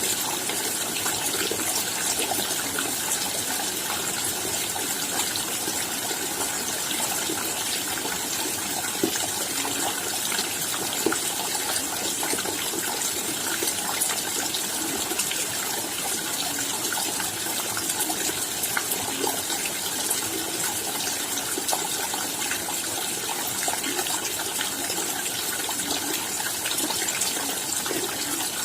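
Steady rain falling, an even hiss dotted with the ticks of many individual drops striking.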